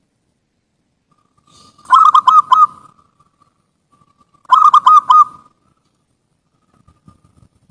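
Zebra dove (perkutut) cooing: two short rolling phrases about two and a half seconds apart, each a run of about four quick notes after a faint lead-in.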